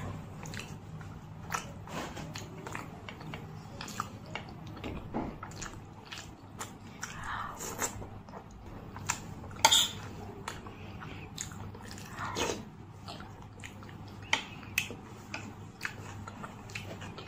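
Close-miked chewing of a mouthful of puri (fried flatbread): irregular wet mouth clicks and smacks, with one louder sharp click about ten seconds in.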